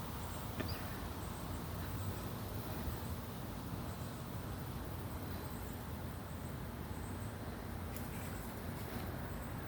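Quiet, steady background noise: a faint even hiss over a low hum, with one faint click about half a second in.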